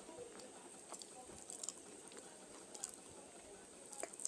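A person biting and chewing pieces of dry, brittle clay-like rock, with scattered sharp crackles and one louder crunch near the end.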